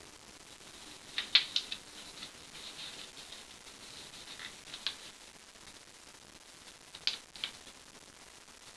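A sheet of printer paper being folded and creased by hand: soft rustling with clusters of sharp crackles about a second in, briefly near the middle, and again near the end.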